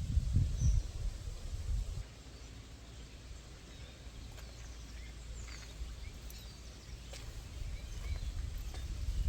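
Outdoor ambience: a low rumble for the first two seconds, then quieter, with a few faint bird chirps.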